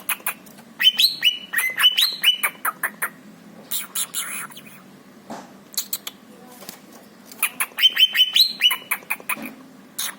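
Pet cucak ijo (greater green leafbird) singing in bursts of quick rising chirps and sharp clicking notes, in about four runs with brief pauses between.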